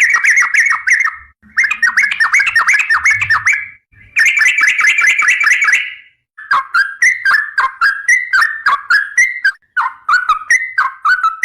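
Yellow-vented bulbul (trucukan) singing loudly: runs of quick, bubbling, chattering notes about two seconds long, broken by short pauses, turning into more spaced phrases after about six seconds.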